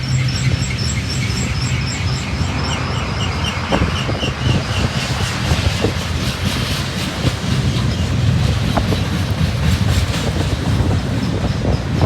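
Union Pacific mixed manifest freight train rolling past close by: a steady low rumble with wheels clicking over the rails. A high ringing pulses about three times a second through the first few seconds.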